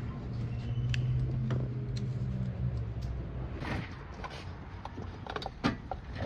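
A low steady hum for the first couple of seconds, then scattered metal clicks and knocks of parts and tools being handled around a car's distributor.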